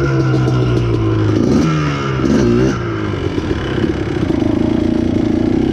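Yamaha Blaster two-stroke quad engine revving under throttle, its pitch rising and falling as it is blipped, then running at a steadier pace from about four seconds in.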